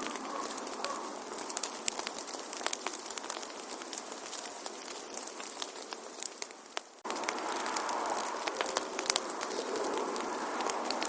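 Wood fire crackling in a fireplace: a steady hiss of burning with frequent sharp pops and snaps. About seven seconds in the sound fades briefly and then cuts back in suddenly.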